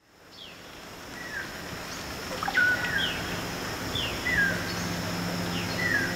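Tropical rainforest ambience fading in: birds giving repeated short, falling whistled calls about once a second over a steady high whine and a soft hiss. About four seconds in, a low steady hum comes in underneath.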